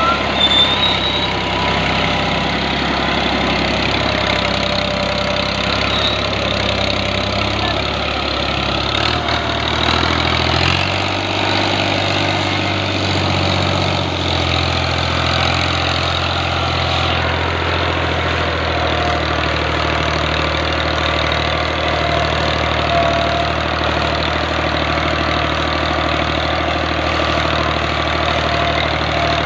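New Holland Al-Ghazi tractor's diesel engine running steadily, its low note shifting in pitch about a third of the way in before settling again.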